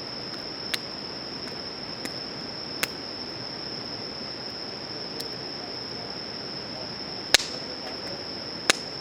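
Wood campfire crackling, with a few sharp, irregular pops, the loudest about seven seconds in and another near the end. Under it runs a steady, high insect drone.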